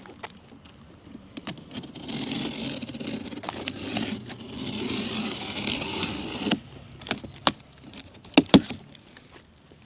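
A cardboard shipping box being opened and its packing rustled and scraped for about four seconds, followed by a few sharp clicks and knocks as the parts inside are handled.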